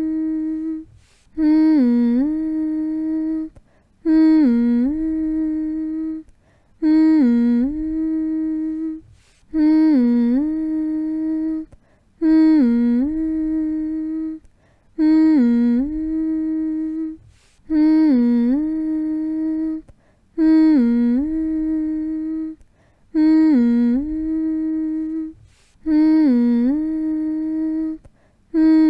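A person humming a soothing lullaby-style hum: the same single note repeated about every three seconds, each one dipping briefly in pitch at the start and then held steady before a short pause for breath.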